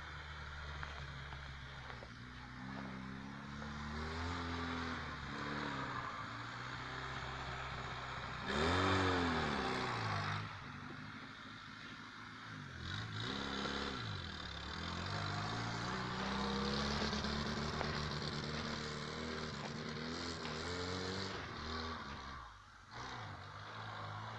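Lada Niva's engine revving up and down as the car drives through snow, the pitch rising and falling again and again. The hardest rev comes about nine seconds in.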